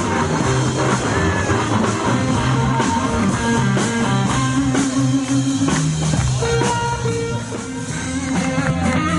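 Live hill country blues band playing an instrumental passage: electric guitars with bodies built from car mufflers, over a steady drum-kit beat.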